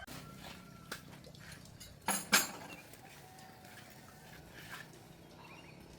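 A few sharp knocks over a low background: a light one about a second in, then a loud pair about two seconds in.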